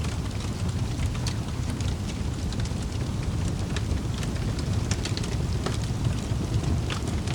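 Wood fire in a fireplace crackling: irregular sharp pops and snaps scattered over a steady low rumble of burning flames.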